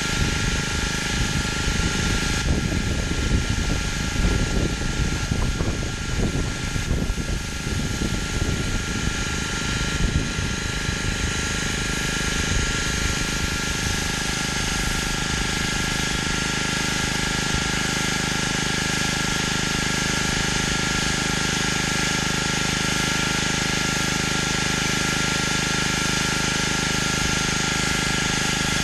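Pressure washer running with its water spray hissing against concrete. An uneven low rumble over the first ten seconds or so settles into a steady sound with a constant high whine.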